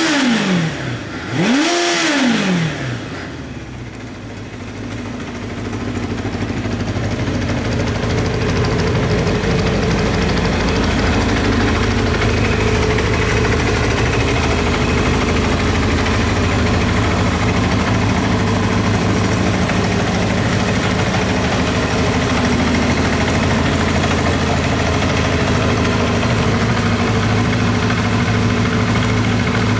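1997 Kawasaki Zephyr 750RS's air-cooled inline-four engine blipped twice in quick succession, then settling back to a steady idle.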